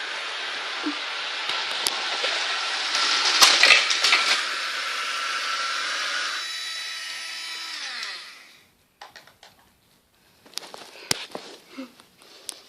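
Märklin model train running on its metal track with a steady whirring hiss, broken about three and a half seconds in by a burst of loud clattering and knocking, typical of the trains colliding. The running noise carries on, then winds down with falling tones and stops at about eight seconds, followed by a few light clicks and knocks.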